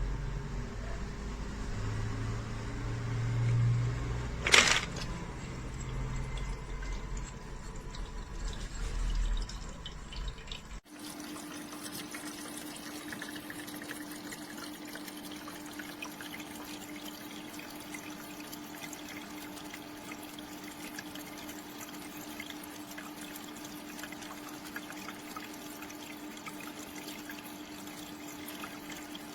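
Countertop ice cube maker running: a steady hum with water running and trickling. It follows about ten seconds of low rumbling and one sharp click.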